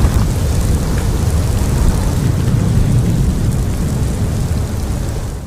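Storm wind rushing with a heavy, steady low rumble, buffeting the microphone; it eases slightly near the end.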